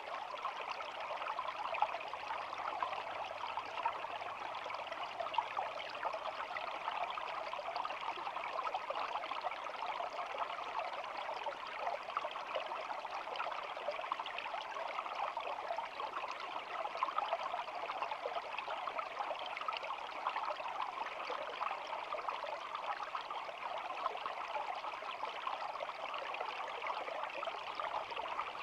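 Small shallow stream flowing and babbling steadily, a continuous fine trickling and splashing of water.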